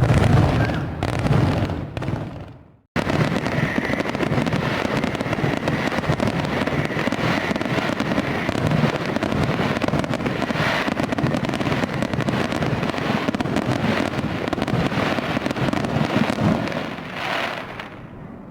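Fireworks going off: a few loud booms, then after a sudden cut a dense, continuous run of bangs and crackling that eases off near the end.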